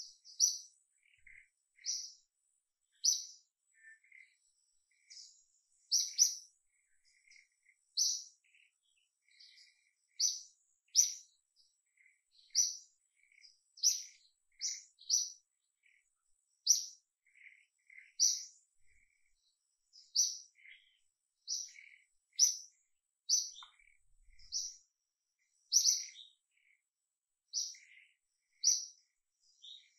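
A small bird chirping over and over: short, high chirps about one a second, irregularly spaced, with fainter, lower chirps in between.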